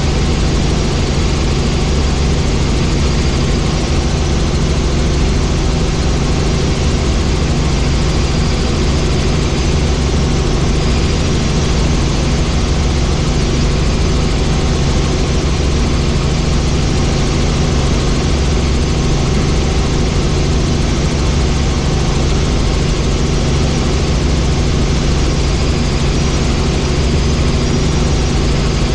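Helicopter in flight: the steady drone of engine and rotor, a deep hum under a rushing noise that does not change.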